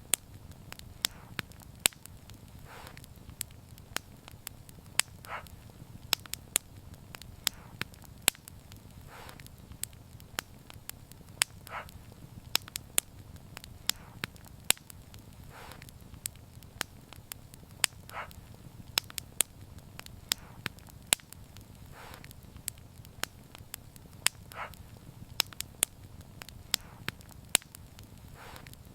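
Wood fire crackling, with sharp irregular pops several times a second over a steady low rumble of flames.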